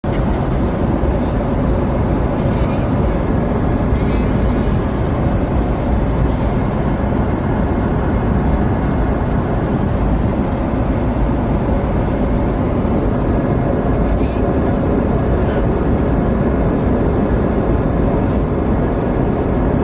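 Steady cabin noise of an airliner in flight: the even, low-heavy sound of engines and airflow.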